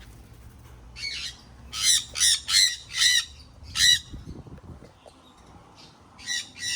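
Parrots squawking: a quick run of six harsh calls starting about a second in, a pause, then two more near the end.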